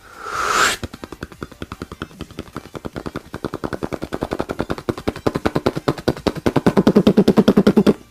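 A person imitating rapid machine-gun fire with the mouth: after a short hiss, a fast, even rattle of many pops a second that grows louder toward the end.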